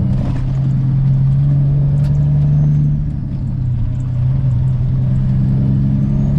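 Peterbilt 379's diesel engine pulling the loaded rig away under power, its steady drone climbing, with a brief dip about three seconds in before it climbs again.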